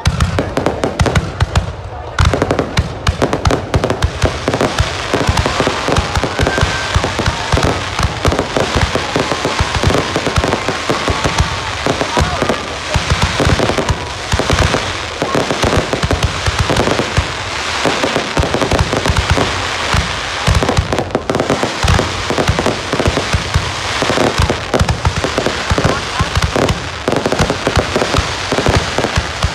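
Fireworks display in a dense barrage: aerial shells bursting one after another with overlapping bangs and crackling, with no pause.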